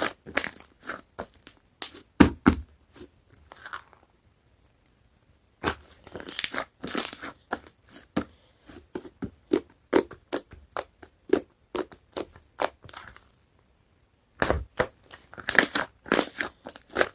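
Whipped-cream slime being squished and pressed by hand: fast runs of sharp wet pops and crackles, broken by two short pauses, one about a quarter of the way in and one past the middle.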